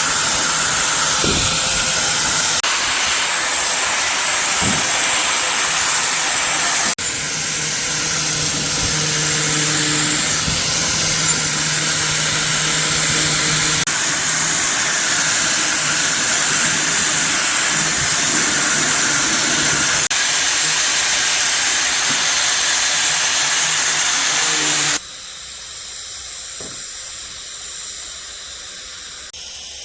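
Loud, steady hiss of a compressed-air or spray tool at work, in a few cut segments. It drops abruptly to a quieter hiss about seven seconds in, and much quieter again near the end.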